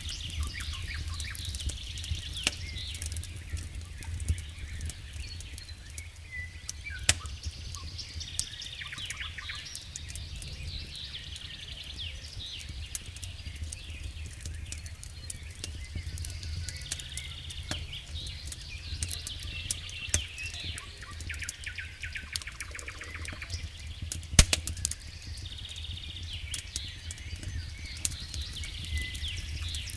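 Campfire crackling with scattered sharp pops, one much louder than the rest late on, while small birds sing repeated chirps and trills. A steady low rumble runs underneath.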